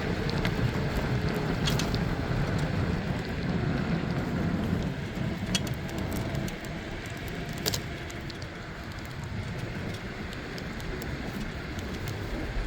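Wind and road rumble from riding a bicycle, steady and a little louder in the first half, with a few sharp clicks or rattles from the bike.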